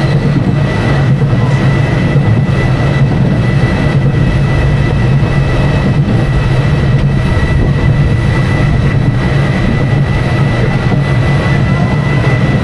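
Schwarzkopf Jumbo Jet roller coaster train running, heard from aboard: a loud, steady low rumble with a steady high whine over it.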